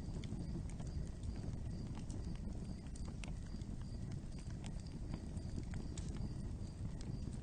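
Wood fire crackling: irregular sharp pops and snaps over a low, steady rumble of burning, with a faint, regular high tick about two or three times a second.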